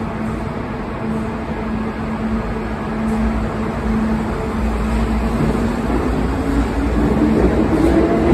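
Kintetsu limited express electric train pulling out of a station. A steady hum gives way to a slowly rising whine and a growing rumble as it picks up speed.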